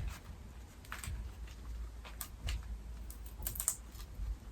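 Faint, scattered small clicks and scratches of fingers picking at packaging tape and glue stuck to a vacuum wand, a few light taps a second or so apart.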